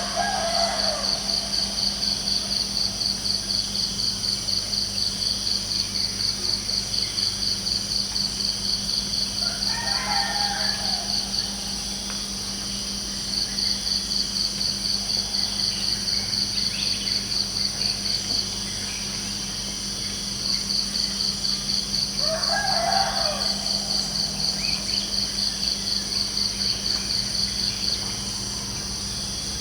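Crickets chirping in a steady high pulsing trill, about four pulses a second, stopping briefly now and then, with a rooster crowing three times: at the start, about ten seconds in and near twenty-three seconds.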